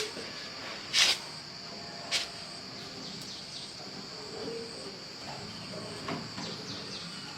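Steady high-pitched insect buzzing, like crickets, with two sharp knocks about one and two seconds in.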